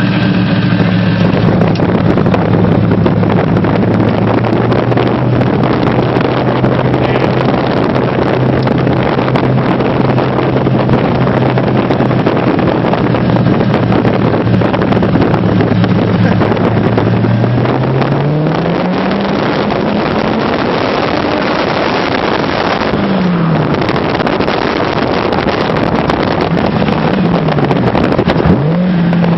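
Factory Five GTM supercar's engine pulling under way, with heavy wind and road noise over it. About two-thirds through, the engine note rises as it accelerates, then falls and climbs again a few times near the end.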